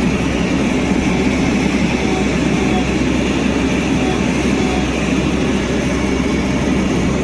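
Heavy diesel engine of an earthmoving machine running steadily under load, a loud continuous low rumble.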